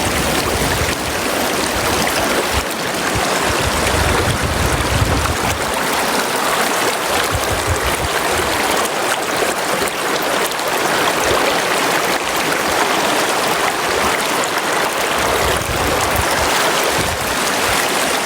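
Steady rushing of a flowing river, with a low rumble that swells and fades now and then underneath.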